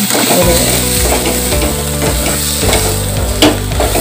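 Spatula stirring and scraping onion and spice masala in a nonstick kadai while it sizzles in oil, the stage of sautéing the spices until the oil begins to separate. One louder scrape about three and a half seconds in.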